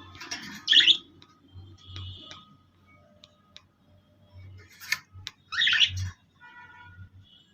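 Pet birds calling: two loud, harsh squawks, one at the start and one about five and a half seconds in, with fainter chirps and a few sharp clicks between.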